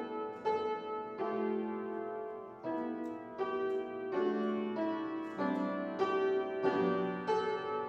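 Solo piano playing slowly, with chords and notes struck about once a second and left to ring.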